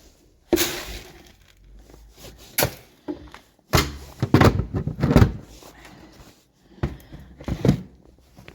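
Mixed corn being scooped and poured into a feed container: several separate rattling pours and knocks, the longest in the middle.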